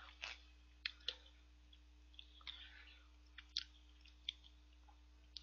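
A person eating with chopsticks close to the microphone, chewing with scattered small wet mouth clicks and smacks, faint over a steady electrical hum.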